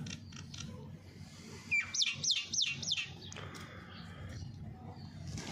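A small bird chirping: a quick run of about five sharp, high chirps, each falling steeply in pitch, about two seconds in.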